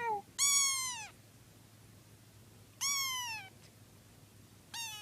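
A domestic cat meowing four times, each meow falling in pitch: two short ones at the start and end and two longer ones, about half a second and three seconds in.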